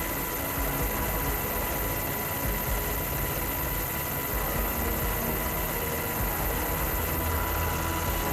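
Steady engine-like machine noise: a continuous low rumble under a broad hiss, with faint steady whining tones.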